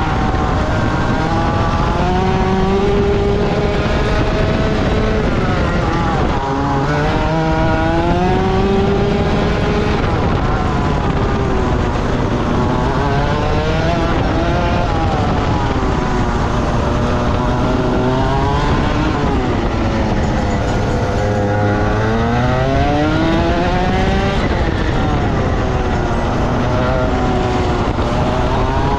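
Rotax Max 125 single-cylinder two-stroke kart engine under way on track, its pitch climbing on the throttle and dropping off again every few seconds through the corners.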